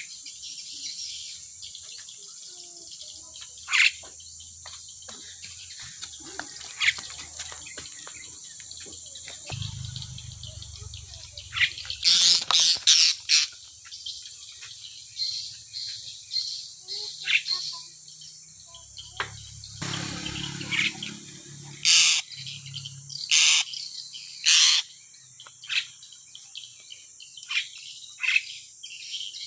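Bird calling in short, sharp chirps: scattered single notes, a quick run of loud calls about twelve seconds in, and several more loud single calls in the second half. A steady high-pitched insect drone runs underneath.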